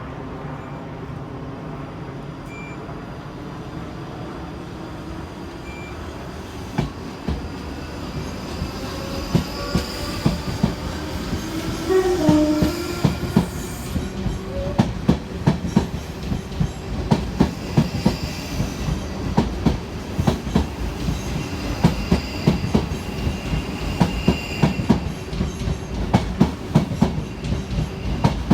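A train passing close by. The rumble grows, and wheels clatter over rail joints in a quickening run of clicks, with brief squealing tones near the middle.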